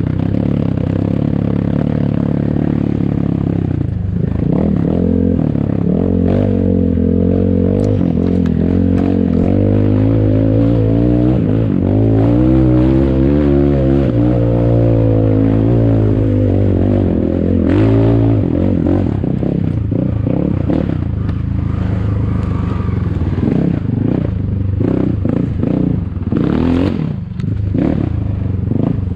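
ATAKI DR 250 enduro motorcycle engine running while ridden, its pitch rising and falling as the throttle is worked, with the most revving in the middle stretch. There is clattering from the bike over the trail.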